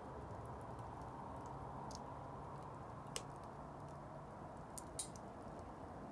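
Wood bonfire burning: a steady low rustle with a few sharp crackling pops, the loudest about three seconds in and two more close together near the end.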